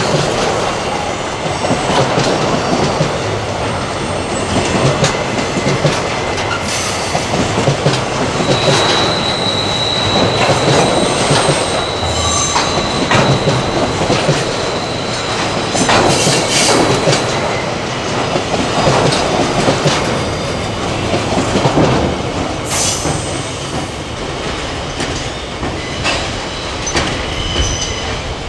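Freight train's container flatcars rolling past on a curve: a continuous rumble of steel wheels on rail with repeated rail clacks. Wheel flanges squeal against the curved rail, with one long steady high squeal from about a third of the way in to past the middle and shorter squeals after it.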